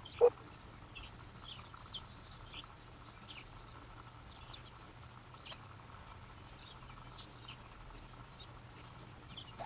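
Outdoor ambience of scattered short, high bird chirps. A single sharp knock just after the start is the loudest sound.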